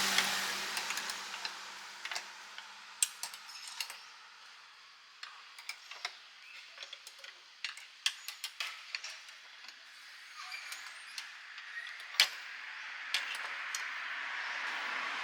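Scattered sharp metallic clinks and taps from kitchen gear at a charcoal grill stall, with one loud clink about twelve seconds in. Passing-traffic noise fades over the first two seconds and swells again near the end.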